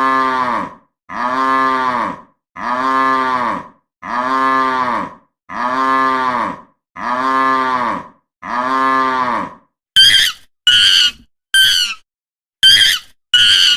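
A cow mooing: the same moo, a call of about a second that rises and falls in pitch, repeated seven times at even spacing. About ten seconds in it gives way to a quick run of five short, high-pitched squeals from another animal.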